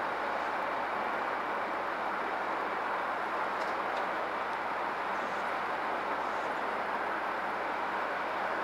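Heavy truck running steadily, an even, unchanging vehicle noise.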